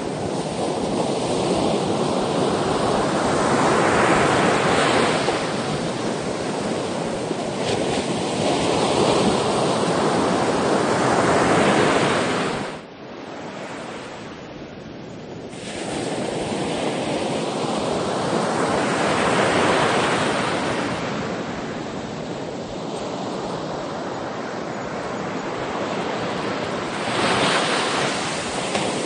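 Sea waves breaking and washing on the shore, the surf swelling and easing in slow surges every seven or eight seconds, with a brief lull about halfway through.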